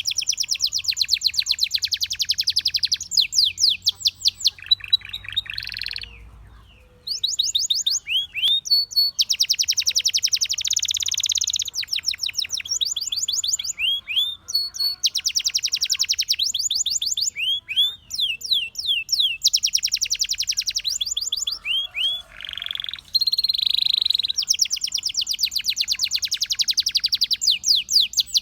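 Canary singing: long, fast trills of repeated notes, moving from one run of syllables to another, with a short pause about six seconds in.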